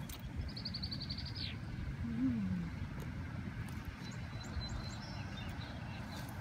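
A songbird's quick trill of even high notes about a second in, ending in a falling sweep, then a few faint high chirps later, over a steady low rumble. A short low rising-and-falling hum about two seconds in.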